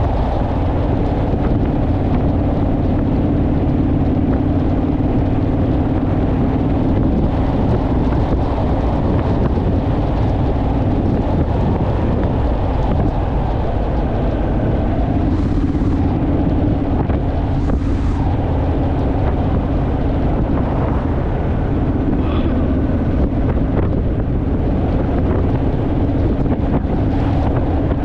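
Honda Rebel motorcycle's parallel-twin engine running steadily on the road, with heavy wind noise buffeting the microphone.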